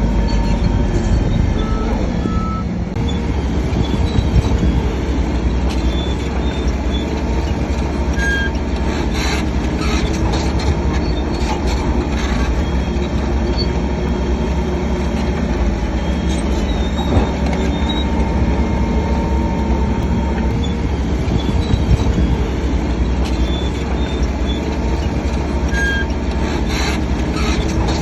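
Shantui DH7C3 crawler bulldozer running steadily, its diesel engine rumbling under the metallic clatter of its tracks, with short squeals and clicks scattered throughout.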